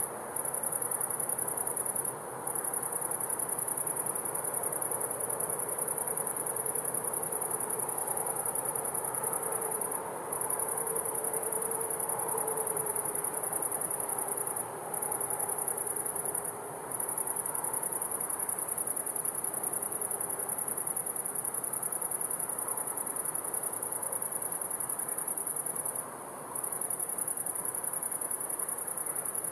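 Crickets singing in a continuous high-pitched chorus that breaks off briefly about six times. Under it runs a faint low hum that slowly drifts in pitch.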